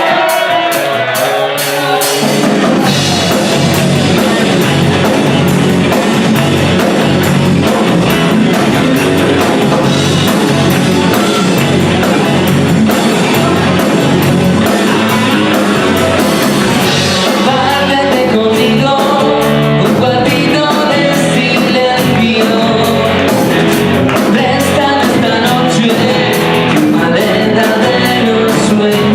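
Pop-rock band playing a song with electric guitar, bass and drum kit under a singing voice. The full band kicks in about two seconds in.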